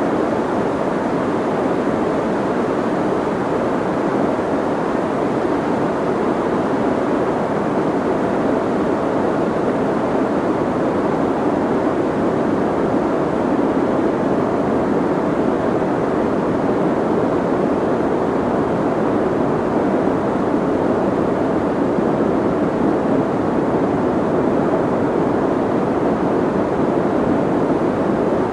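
Soft white noise: a steady, even hiss, muffled, with most of its weight low and little treble, holding level without any change.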